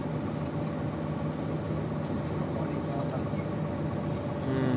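Passenger train running slowly along the track, heard from the side of a carriage: a steady rumbling running noise with a low steady hum under it.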